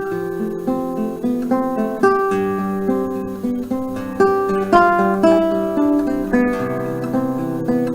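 Acoustic guitar playing a fingerpicked instrumental introduction, single notes ringing over sustained bass notes.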